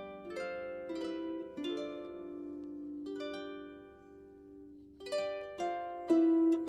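Solo harp playing a slow melody of single plucked notes that ring on and fade. The notes grow fewer and softer about four seconds in, then come back louder near the end.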